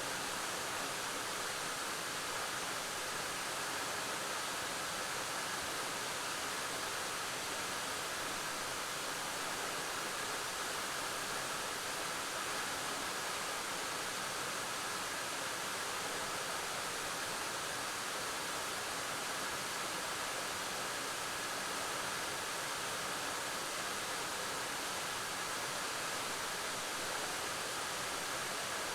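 Waterfall: water falling and rushing onto rock and pool in a steady, even roar with no breaks.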